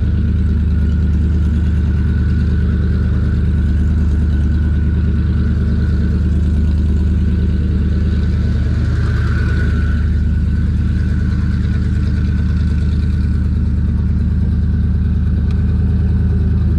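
Twin-turbocharged Ford Mustang SVT Cobra "Terminator" 4.6-litre DOHC V8 running steadily with a deep, even note and no revving.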